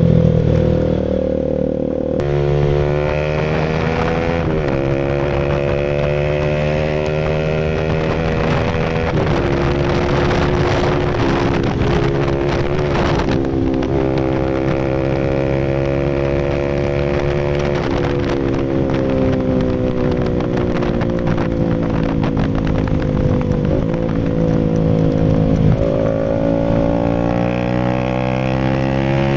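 Rouser RS200's single-cylinder engine running through an SC Project full exhaust. The engine pitch climbs slowly, steps several times, then sinks slowly, with a crackly, rougher stretch in the middle.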